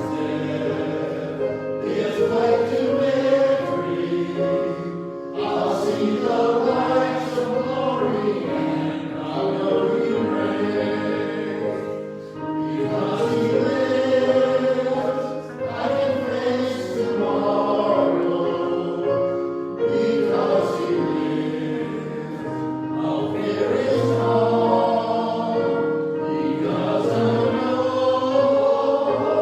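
A choir singing a hymn, in sustained phrases.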